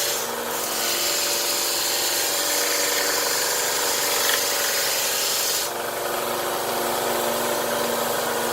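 Central Machinery 1" x 30" benchtop belt sander running a little loud, its belt rubbing against a workpiece, most likely wood. The sound changes briefly just after the start and again just before 6 seconds, as the load on the belt shifts.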